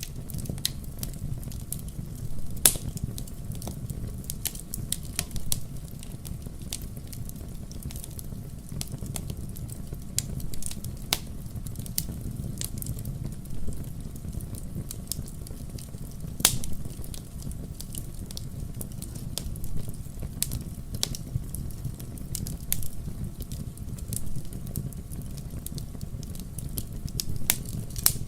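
Wood fire crackling in a fireplace: irregular sharp pops and snaps over a steady low rumble of the flames. The loudest pops come about three seconds in and again past the halfway point.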